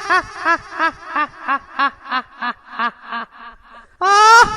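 A high-pitched laughing sound effect: a run of about ten short 'ha' syllables, about three a second, dropping in pitch and fading away. About four seconds in, a loud drawn-out rising note starts the laugh over again.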